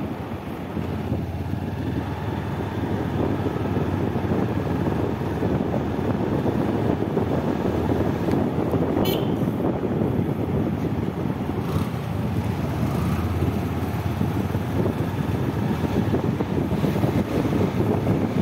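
Motorcycle running steadily while riding, with wind rushing over the microphone, and one brief click about nine seconds in.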